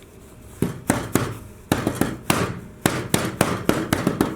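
A quick, uneven series of about a dozen sharp hard knocks, like something being tapped or banged against a hard surface, starting about half a second in.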